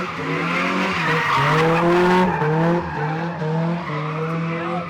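A car's engine revving high, its pitch rising and dipping, while its tyres squeal and skid in a burnout or donut.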